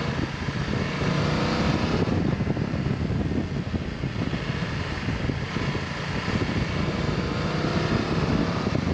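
Motorcycle engine running while riding along at moderate speed, its note rising and falling with the throttle. Heavy wind rumble covers it, picked up by the action camera's own microphone.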